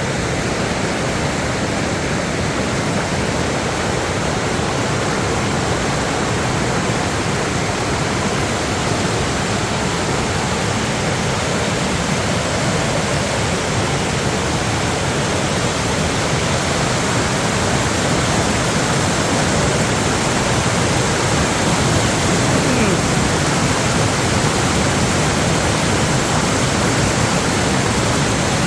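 Steady rush of fast-moving water after heavy rain: a loud, even noise without breaks that swells slightly about two-thirds of the way through.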